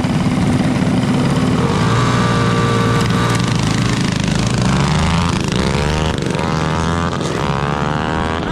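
Several small mini bike engines running loud at once, revving, with their pitch sweeping up and down in the last few seconds.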